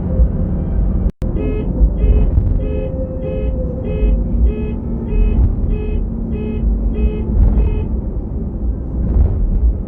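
Bus engine and road rumble in the cabin, broken off for an instant about a second in. Over it, a pulsing beep sounds about a dozen times, two a second, and then stops.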